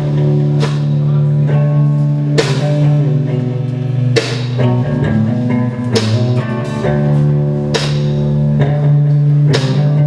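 Live band playing: a plucked guitar and bass holding low notes over drums, with a cymbal crash about every two seconds.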